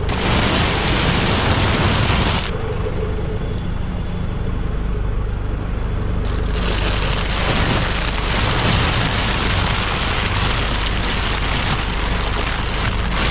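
Farm vehicle engine running steadily, with a loud rushing hiss over it for the first couple of seconds and again from about six seconds in.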